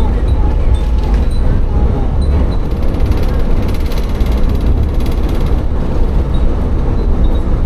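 Tsugaru Railway diesel railcar running between stations, heard from inside the car as a steady deep rumble of engine and wheels. In the first second a few wind chimes hung in the car tinkle faintly.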